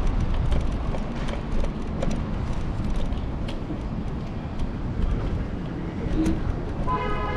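Steady low rumble of wind and road noise from a moving Apollo Explore electric scooter, picked up by a handlebar-mounted camera, with scattered rattles and clicks amid city street traffic. A pitched, voice-like sound starts near the end.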